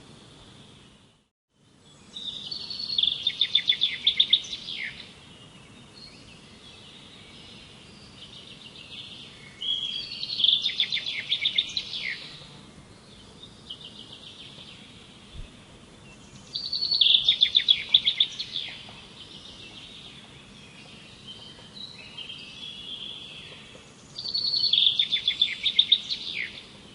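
A songbird singing the same song four times, each a fast run of rapid high notes about two to three seconds long, about seven seconds apart, with softer chirps in between.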